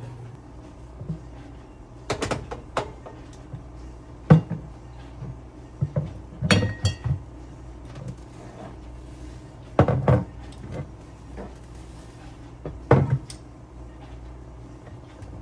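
Household handling sounds: a series of separate knocks and clatters of objects being moved and set down, over a steady low hum.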